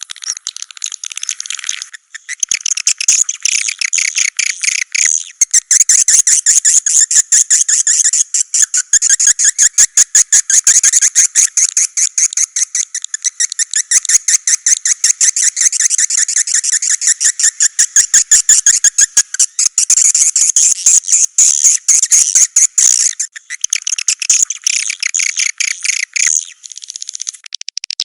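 Recorded edible-nest swiftlet calls, a lure sound for a swiftlet house: dense, high-pitched twittering with rapid runs of clicking chirps, briefly broken about two seconds in.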